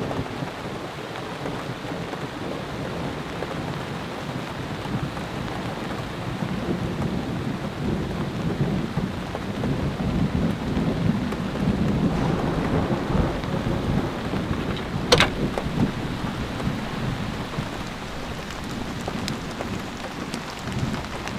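Heavy rain falling steadily with thunder rumbling, the rumble swelling about ten to thirteen seconds in. A single sharp crack about fifteen seconds in.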